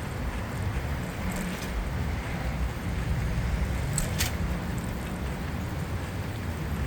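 City street sound heard from a moving bicycle: a steady low rumble of road traffic, with two short sharp clicks about four seconds in.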